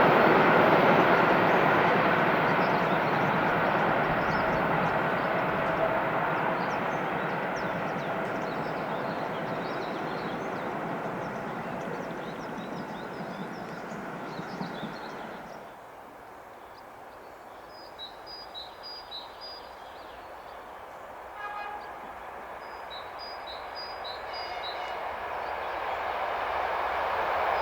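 An electric train running past on the track and fading into the distance, its rumble dropping away about halfway through. Small birds chirp in the quieter stretch, then the rumble of the next train rises as it approaches near the end.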